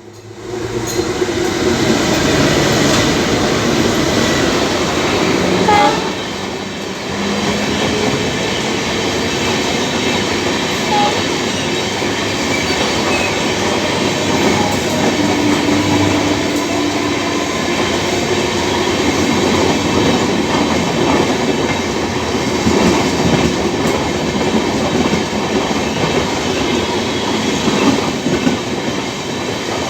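A train running by close at hand: a steady loud rumble with wheels clattering over the rail joints.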